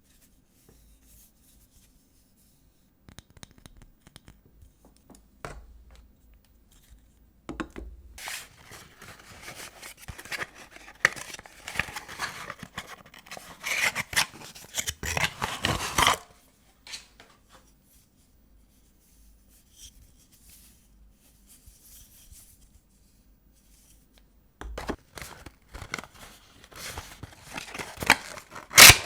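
Paper wrapping of an old bar of soap being handled and torn open: crackling, rustling and tearing in two long spells, with a quiet stretch between them.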